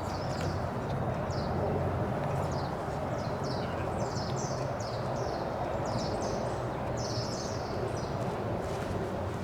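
Small birds chirping and singing in short, quick falling notes, repeated throughout, over a steady low outdoor rumble.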